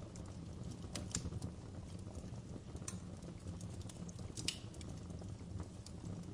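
Wood fire crackling in a fireplace: irregular sharp pops and snaps over a steady low rumble of burning, with louder pops about a second in, near three seconds and about four and a half seconds in.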